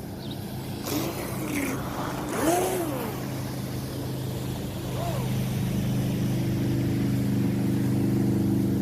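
Brushless motor of a Volantex Vector Pro Angry Shark RC speedboat on a 4S battery, giving a couple of short rising-and-falling whines early, then a steady whine that grows louder from about five seconds in.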